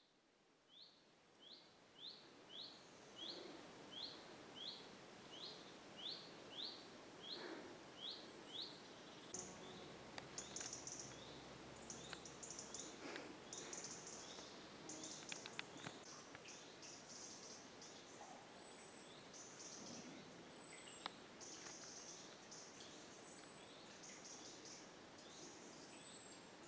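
Faint woodland birdsong. A bird repeats one short chirp about twice a second, then gives way to higher, denser twittering with a few thin whistled notes.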